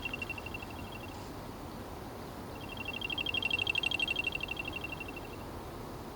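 Crop circle tones played from a recording: a high, rapidly pulsing trill. One trill fades out about a second in, and a longer one rises and fades away about three seconds later.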